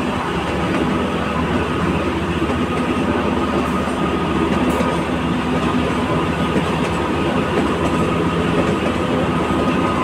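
Narrow-gauge Kalka–Shimla toy train running along the track, heard from beside a moving coach: a steady rumble and rattle of wheels on rails.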